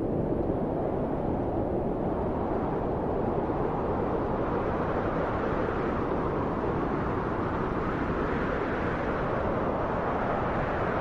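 Steady low wind blowing, a deep rushing noise that swells gently and eases, with no gusting peaks or whistling.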